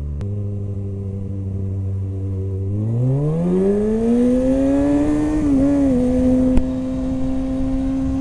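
Suzuki SV650's V-twin engine running at low revs, then accelerating smoothly from about three seconds in and settling at a steady higher speed, with a brief dip in pitch in the middle, over road and wind noise. A click sounds just after the start.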